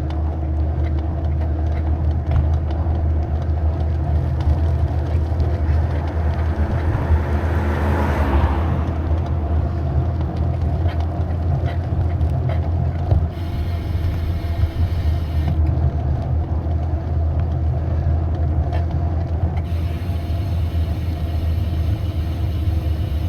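Steady low rumble and rattling picked up through a bicycle's handlebar camera mount as the bike rolls over the road, a vibration noise that the rider puts down to the aero-bar armrests or the DJI camera mount, he is not sure which. About eight seconds in, a passing vehicle swells and fades.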